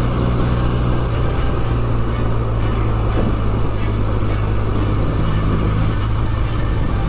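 Benelli TNT 300 motorcycle's parallel-twin engine running steadily while riding, under a constant rush of road and wind noise. The engine note shifts slightly about a second in and again around five seconds in.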